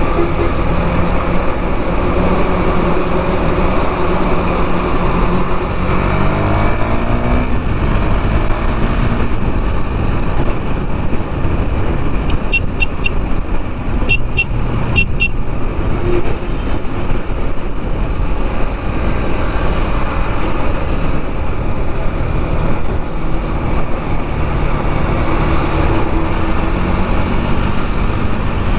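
KTM Duke 390's single-cylinder engine running under way in traffic, with wind and road noise; a few seconds in the revs climb. Around the middle there is a quick series of short, high-pitched beeps.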